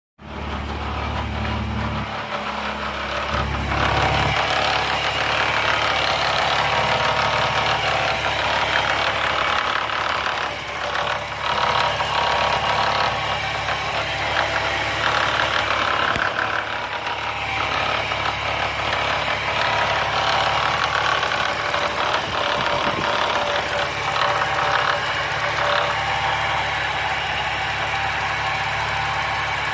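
Chevrolet Omega 3.0 straight-six engine idling hot with a strange mechanical noise that occurs only at warm idle. The owner suspects the timing chain; oil pressure has been measured as OK.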